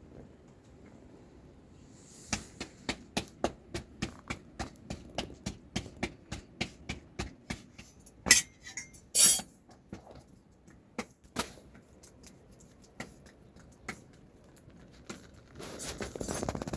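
Kitchen utensils clinking: a quick regular run of light clicks, about three or four a second, for several seconds, then two louder ringing metallic clinks and a few scattered knocks.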